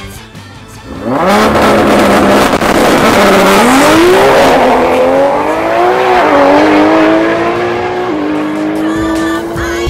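A drag-race car's engine revs up and holds steady at launch revs. It then launches and accelerates hard, its pitch climbing through each gear, with upshifts about six and eight seconds in.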